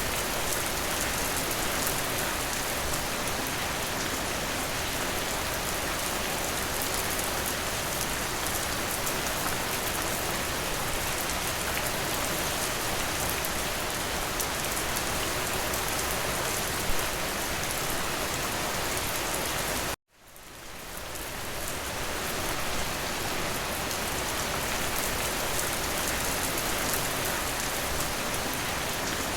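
Steady rain falling on a window, a dense even hiss with fine drop ticks. About twenty seconds in, the sound cuts out abruptly and fades back up over a couple of seconds.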